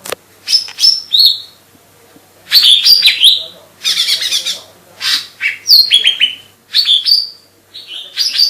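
Lesser green leafbird (Chloropsis cyanopogon) singing vigorously: short bursts of rapid high chirps and slurred, sweeping whistles, phrase after phrase with brief pauses between them.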